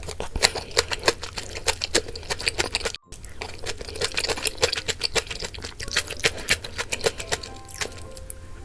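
Eating sounds: rapid, irregular clicks and clinks of utensils against bowls, with soft background music.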